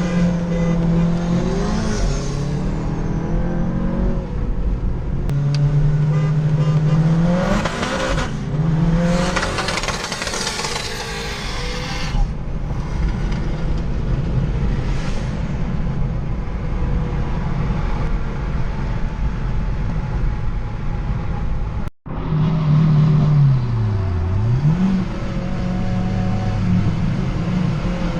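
Turbocharged Volkswagen GTI engine under hard acceleration, its pitch climbing and dropping as it goes through gear changes, with heavy wind and road noise. About 22 s in the sound cuts off abruptly and picks up again, the revs dipping and rising once.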